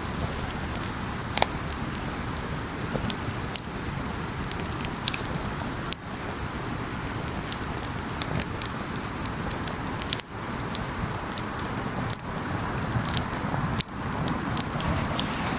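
A wood campfire burning: a steady hiss of flame with irregular sharp crackles and pops from the burning wood. The sound briefly dips three times.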